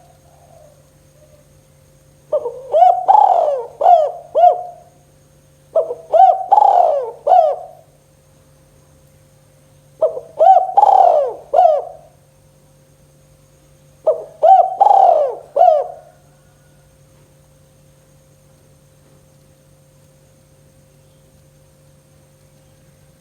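Spotted dove (tekukur) cooing in the 'kuk 2' style, four phrases of several notes each, a few seconds apart, with the calling stopping about two-thirds of the way in. A faint steady hum runs underneath.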